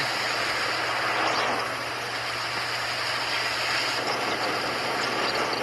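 Steady vehicle noise, a constant rushing hiss over a low hum, from the animated film's soundtrack.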